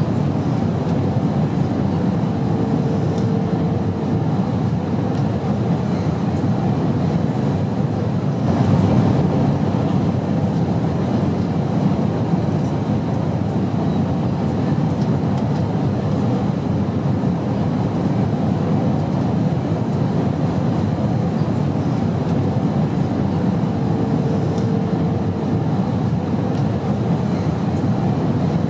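Steady low rumble of airplane noise. A faint hum comes in briefly twice, once a few seconds in and again later on.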